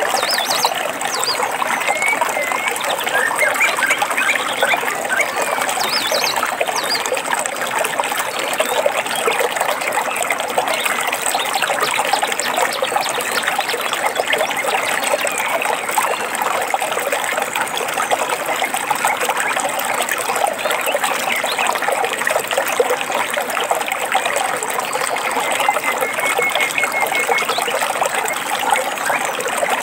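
A stream trickling and babbling steadily, with a few short bird chirps now and then over the water.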